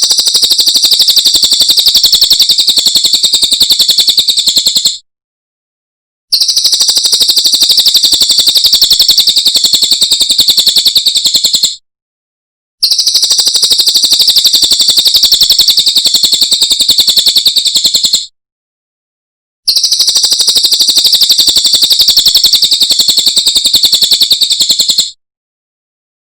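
Cililin bird song: a high, very fast trill of rapidly repeated notes, heard as four bouts of about five seconds each with short silent gaps between them.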